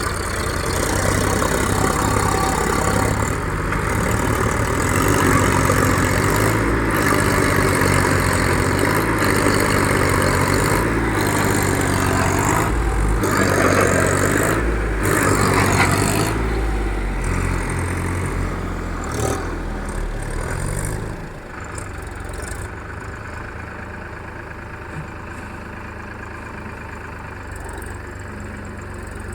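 Tractor diesel engine running hard, its pitch wavering as it is revved, then easing off to quieter steady running about twenty seconds in.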